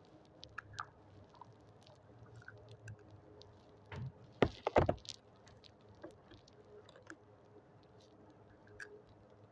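Light clicks and taps from handling a cup and scoop while serving ice cream, with a few louder knocks about halfway through.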